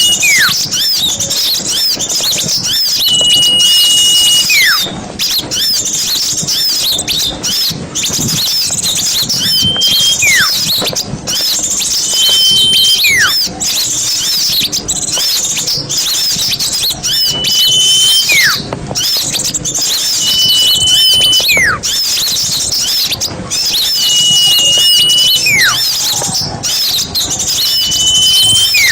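Small songbirds calling in a dense, high-pitched chatter, with a clear whistle repeated about eight times: a held high note that drops into a steep falling slide.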